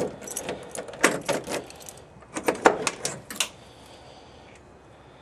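Handling noise of a camera being set in place: a quick run of sharp clicks, knocks and rattles for about three and a half seconds, then only a faint steady hiss.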